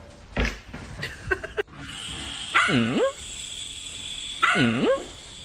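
A dog barking twice, a little under two seconds apart, each bark a harsh call whose pitch dips low and swings back up, after a few short scuffling noises.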